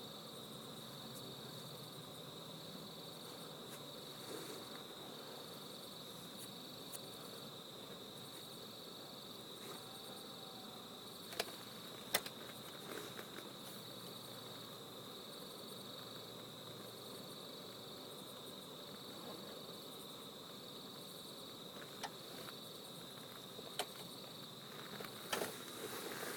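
Night insects chirring steadily in one high-pitched, slightly pulsing band, with a few sharp clicks scattered through the second half.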